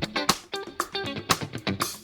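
Guitar-led music, with quick plucked and strummed electric guitar notes over a bass line.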